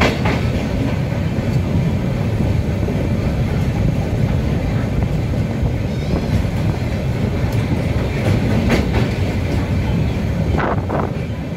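Train running over a steel truss bridge: a steady low rumble of wheels on rails, with a few sharp clicks and clanks, about a second in and again in the last few seconds.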